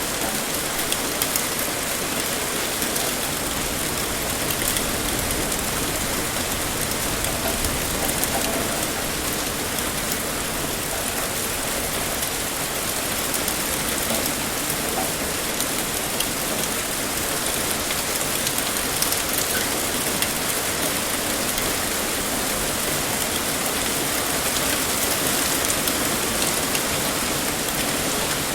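Heavy rain pouring steadily, a dense even hiss with many small drop ticks.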